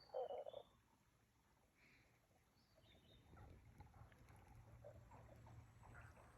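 Frogs calling: a short loud burst of croaks at the start, then after a near-silent stretch a faint chorus of short croaks builds up from about three seconds in. A few faint high chirps sit over it.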